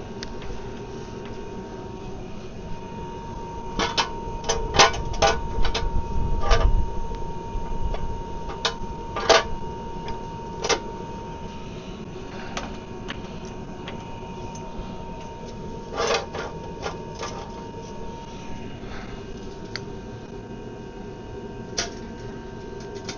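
Scattered metallic clicks and clanks in two clusters of several seconds each, over a steady faint hum: a trolley jack and ratcheting axle stands being set under a van to raise it.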